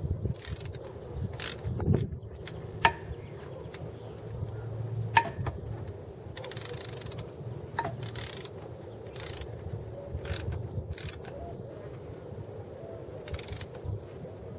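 Ratchet wrench working a spark plug in the engine, with irregular sharp clicks and several short rasping runs of the ratchet.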